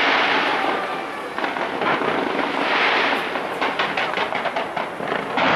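Fireworks going off without pause: a dense run of rapid crackles and pops over a continuous hissing rush. It is loudest near the start, again about three seconds in, and near the end.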